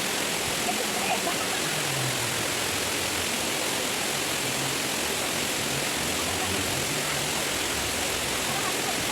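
A waterfall and stream rushing steadily.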